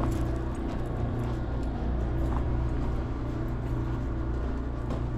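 A steady low hum like an idling engine, with a few faint ticks on top.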